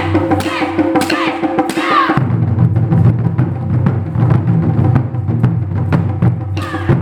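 Ensemble of Japanese taiko drums played live in a fast, driving rhythm of dense strikes. For the first two seconds and again near the end, a higher pitched sound rises and falls over the drumming.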